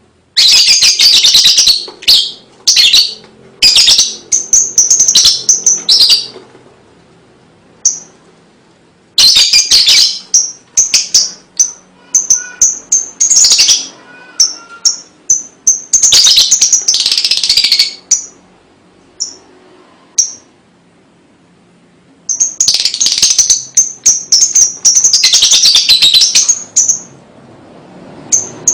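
Lovebird ngekek: long bouts of rapid, shrill chattering trills, three runs of several seconds each with short pauses between.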